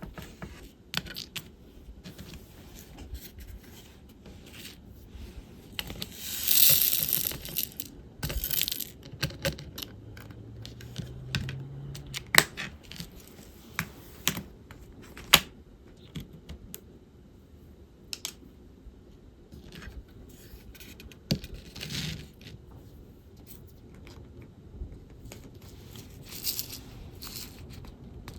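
Small scattered clicks and taps of diamond-painting work: plastic resin drills and tools ticking against a bead tray and canvas. A louder rattling burst comes about six seconds in.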